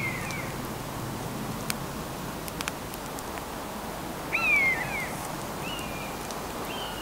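A bird's mewing call that rises briefly and then falls, heard at the start and again about four and a half seconds in, with two shorter calls near the end. Underneath is a steady outdoor hiss with a few faint sharp clicks.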